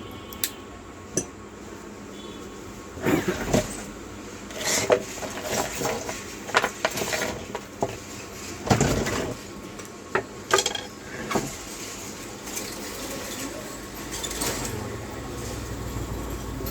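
Irregular clinks, taps and knocks of small metal tools and parts being handled during work on a water pump. A low rumble rises near the end.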